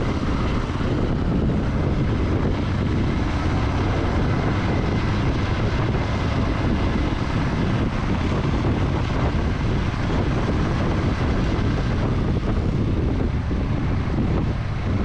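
Motorcycle on the move: steady engine and road rumble mixed with wind buffeting the microphone.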